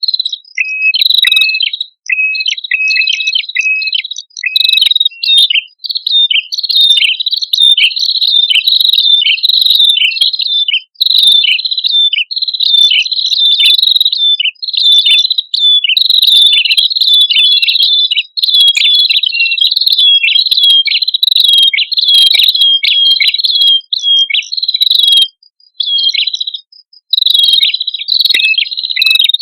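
Male and female prenjak kepala merah calling, a loud, rapid, continuous series of high chirping notes with a few brief pauses, played as a lure recording for birds.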